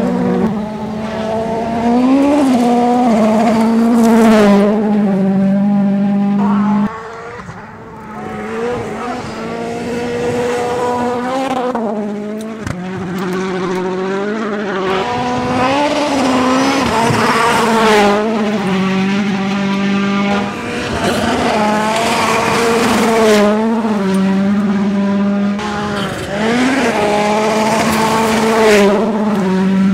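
World Rally Cars' turbocharged four-cylinder engines at full throttle, the revs climbing and dropping again and again through gear changes. An abrupt change about seven seconds in marks a switch to another car.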